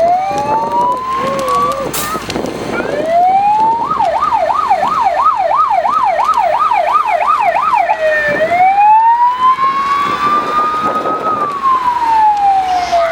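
Fire engine's electronic siren. It wails in slow rises and falls, switches about four seconds in to a fast yelp of roughly three sweeps a second, then drops back to a slow wail near the end.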